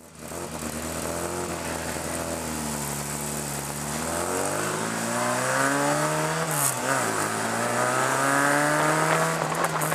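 Mini stock car's engine heard from inside the cockpit, running steadily at first, then revving up as the car pulls away, with one quick drop in revs just past the middle before it climbs again and holds.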